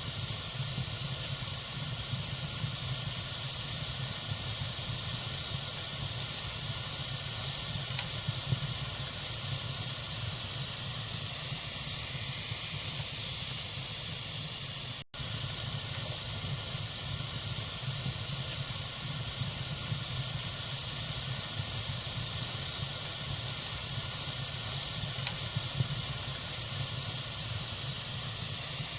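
Wood fire burning in a fireplace, a steady hiss with a few faint crackles. The sound drops out for an instant about halfway through.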